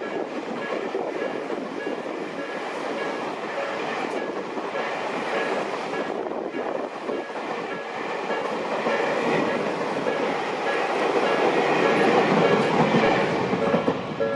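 Tobu Skytree Line train running past over a level crossing, wheels clattering on the rails, getting louder toward a peak near the end. The crossing's warning bell rings in a steady repeating pattern behind it.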